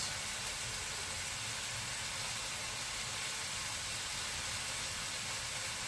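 Steady, even hiss of kebabs cooking.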